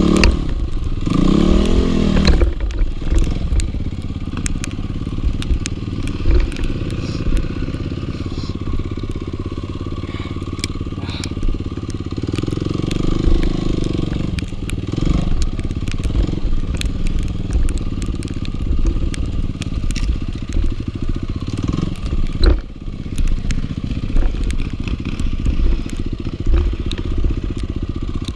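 Dirt bike engine revving up and down in bursts, its pitch rising and falling near the start and again around the middle, over a constant rough low rumble.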